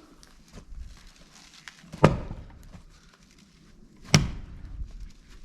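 Two axe blows striking a firewood log during wood splitting, about two seconds apart, each a sharp knock with a short ring-out.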